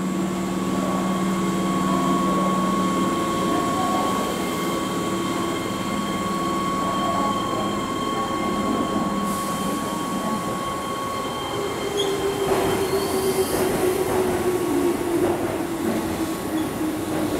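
Keihan 13000-series electric train pulling into the platform and braking to a stop, with steady whining tones from the train. Near the end a lower whine slides gently down in pitch as it slows to a halt.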